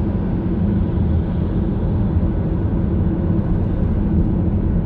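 Steady road and engine noise inside a car's cabin at highway speed.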